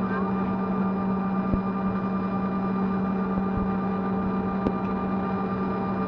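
Steady drone inside an airliner cabin after landing: engine and air-conditioning hum with one strong low tone, and a few faint clicks.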